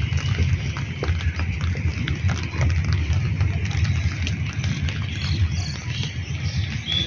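Monsoon rain falling, with many sharp drop ticks over a steady hiss and a constant low rumble underneath.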